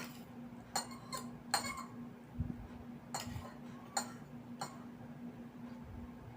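Spoon and fork clinking against a plate or bowl while eating, about six light clinks spaced irregularly, over a faint steady hum.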